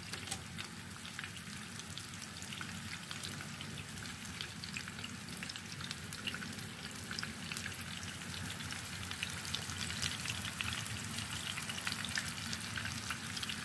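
Mutton chapli kababs shallow-frying in hot oil in a nonstick grill pan: a steady sizzle full of fine crackling and spitting, growing a little louder toward the end.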